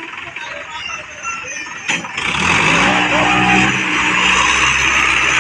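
Tractor diesel engine running steadily and loudly, cutting in abruptly about two seconds in after a sharp click, with people's voices faintly heard before it.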